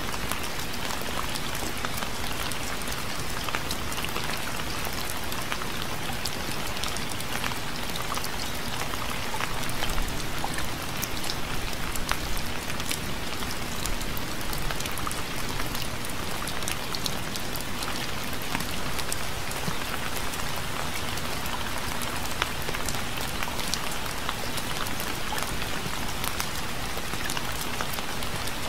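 Steady rain falling, with a dense patter of individual drops hitting a surface. It swells slightly about ten seconds in.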